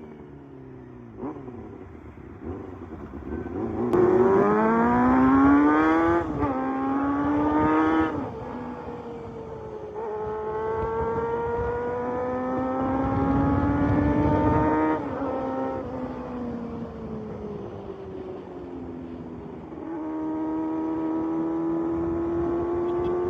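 Motorcycle engine accelerating and easing off. The pitch climbs steeply about four seconds in, dips at a gear change near six seconds and climbs again before falling back. A slower, longer climb follows, dies away, and a gentle rise comes near the end.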